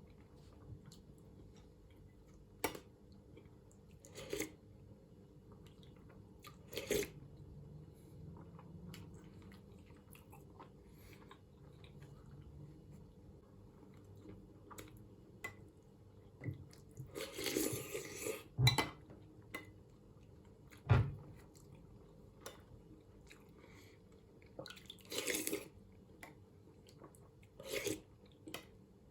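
Close-up eating sounds of someone having mushroom soup: chewing, with scattered sharp clinks of a spoon against a bowl and a denser run of them a little past halfway.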